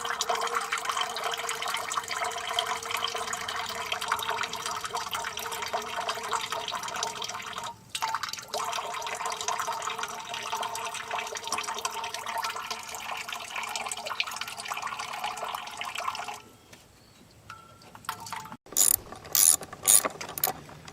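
Hand ratchet wrench working a stuck fastener: fast, continuous ratchet clicking for about sixteen seconds with a brief break about halfway, then, after a short pause, a run of separate sharp clicks near the end.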